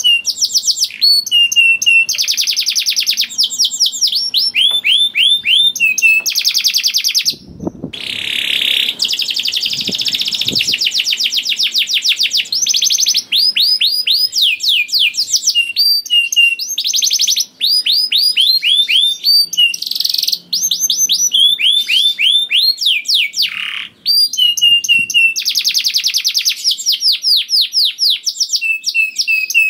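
Canary singing without pause: long, fast rolls of quickly repeated down-sweeping notes, one trill running straight into the next. This is the long rolling 'ngerek' song of a canary in full song.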